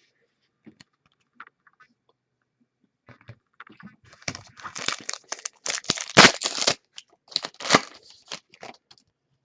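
Foil trading-card pack wrapper being torn open and crinkled: scattered faint ticks at first, then a dense run of tearing and crackling from about four seconds in, tailing off into a few sharp crinkles.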